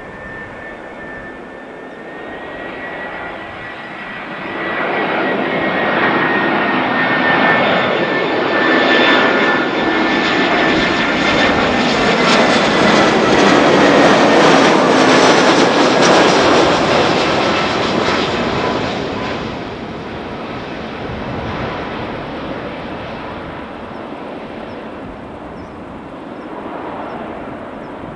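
Airbus A320 jet airliner passing on its landing approach. The jet engine noise, with a high fan whine, grows over several seconds and is loudest midway. It then fades as the whine sinks slightly in pitch.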